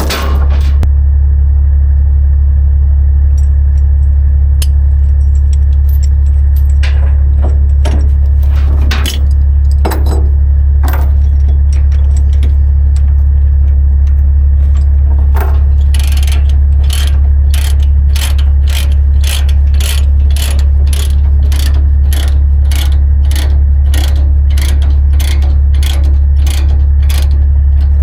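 Ratchet chain binder being cranked to tighten a tie-down chain, clicking at about two a second through the second half after a few single clicks earlier, over a steady low engine drone.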